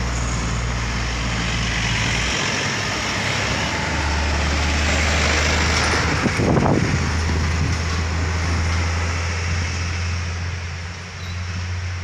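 Heavy vehicle traffic on a steep bend: a diesel engine drone with tyre and road noise, swelling as a vehicle passes close, loudest about six and a half seconds in, then easing off near the end.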